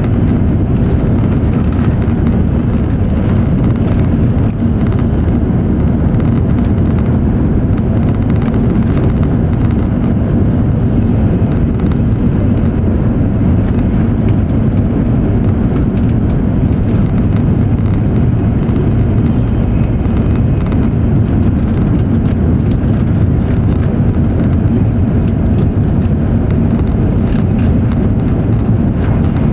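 E7 series Shinkansen running at speed, heard from inside the passenger car: a loud, steady low rumble of wheels and rushing air, with faint light ticks and rattles over it.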